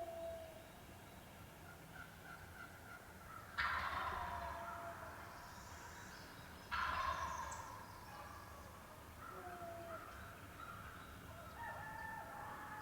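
Wild turkey gobbling twice, about three seconds apart. Each gobble comes on suddenly and fades over a second or so, with fainter short bird calls in between.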